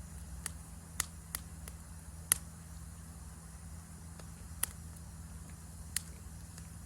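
Wood campfire crackling: sharp, irregular pops every second or so, the loudest about two seconds in, over a steady low rumble and a faint high hiss.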